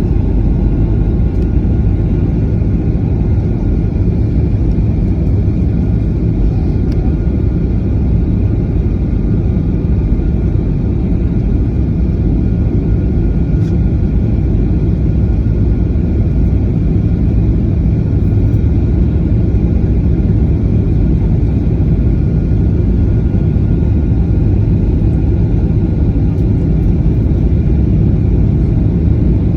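Steady cabin noise of a Boeing 737 in the air: a loud, even rumble of the jet engines and airflow, with a faint steady whine above it.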